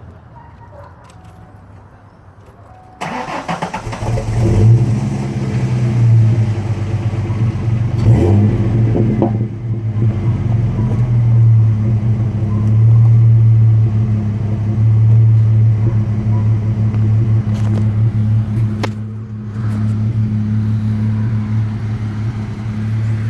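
2000 Ford Mustang's 3.8-litre V6 being started: a few quiet seconds, then the starter cranks briefly about three seconds in and the engine catches. It gets one quick rev a few seconds later, then idles steadily.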